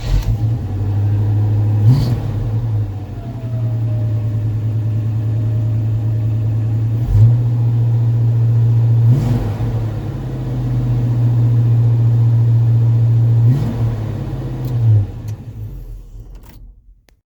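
1978 Chevy K30 truck's engine running cold at a steady idle, blipped into five brief revs, with the sound falling away near the end.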